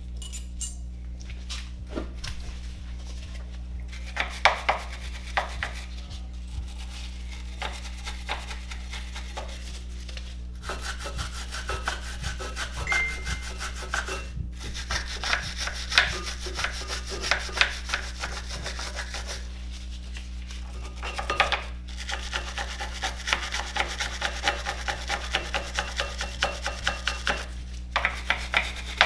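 Hand scraping or scrubbing on brake parts, rasping back-and-forth strokes several a second, in bouts broken by short pauses.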